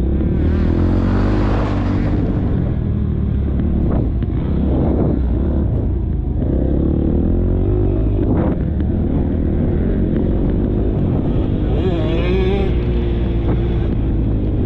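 KTM motocross bike engine under hard riding, revving up and down repeatedly as the throttle is opened and closed through the track.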